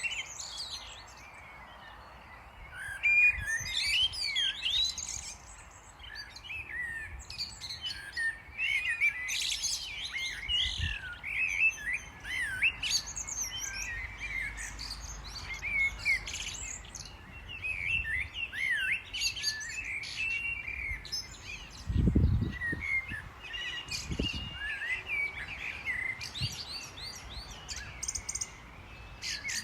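Small songbirds chirping and twittering almost continuously, many short overlapping calls. Two low thuds come about two-thirds of the way through.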